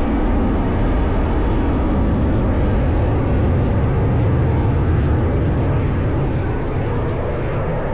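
Display aircraft flying over, a loud steady engine rumble that eases slightly near the end.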